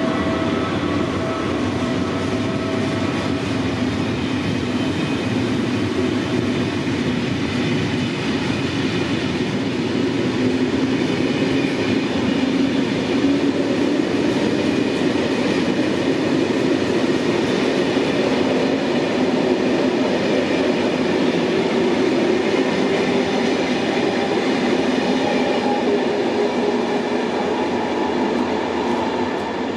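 Ouigo Train Classique, a BB 22200 electric locomotive hauling Corail coaches, running through the station with a steady rolling noise from its wheels on the rails, swelling a little towards the middle.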